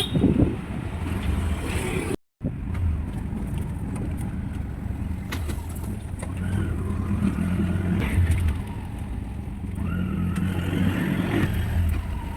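Auto-rickshaw engine running steadily with road noise as it drives, heard from inside the vehicle; the sound cuts out completely for a moment about two seconds in.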